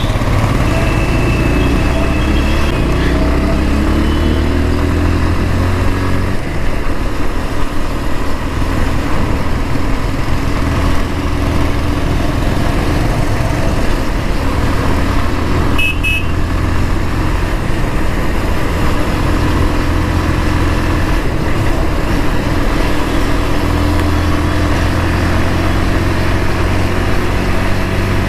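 Bajaj Pulsar 150's single-cylinder air-cooled engine pulling under acceleration, its pitch rising with the revs over the first few seconds and again near the end, under steady wind and road noise from riding at speed. A brief double beep sounds about halfway through.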